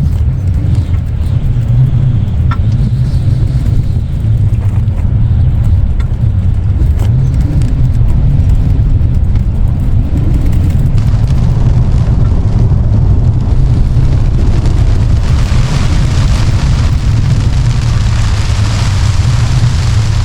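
Strong storm wind buffeting the microphone, a heavy steady low rumble; about fifteen seconds in, a louder hiss of gusting wind joins it.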